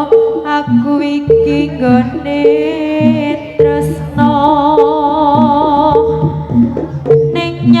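Javanese band music for a sentherewe dance: a wavering, vibrato-laden melody line over a short note repeating about twice a second and hand-drum hits.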